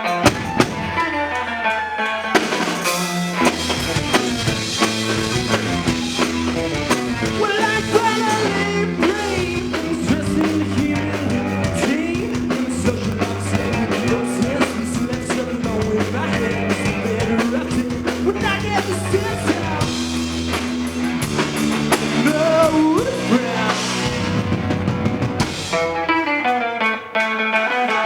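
Rock band playing live: electric guitar alone at first, then drums and bass come in about two seconds in and the full band plays. Near the end it drops back to guitar alone.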